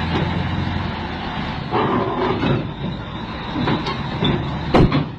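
Road vehicle running with a steady low hum, then a sharp loud bang near the end.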